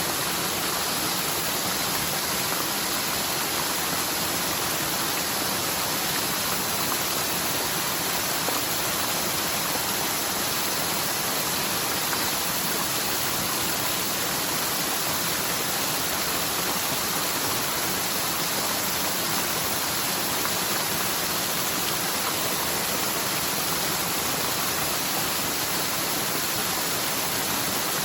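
Swollen mountain forest stream rushing steadily downhill, running high with typhoon rainwater in a channel that is normally nearly dry. A constant, even, hissy rush of water with no let-up.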